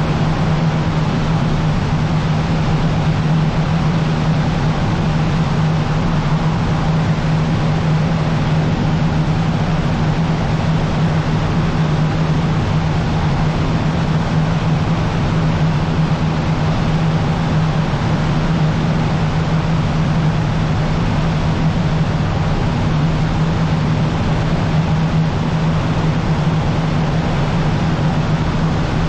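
Cessna 150's four-cylinder Continental O-200 engine and propeller droning steadily in flight, a constant low hum with no change in pitch.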